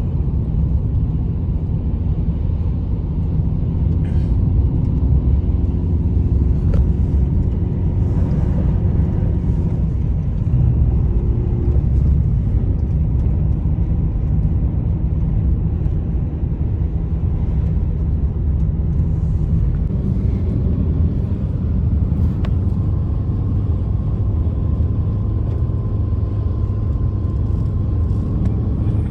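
Steady, loud low rumble of strong blizzard wind.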